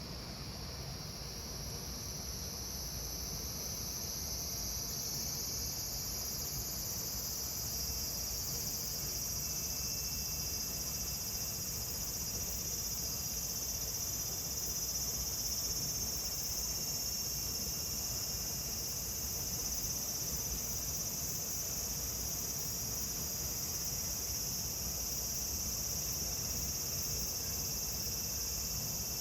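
A chorus of cicadas shrilling in a continuous high, dense buzz that swells up over the first few seconds and then holds steady.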